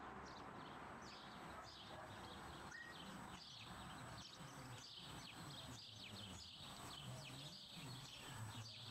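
Faint birdsong: many short, quick chirps from small birds, over a low, steady background noise.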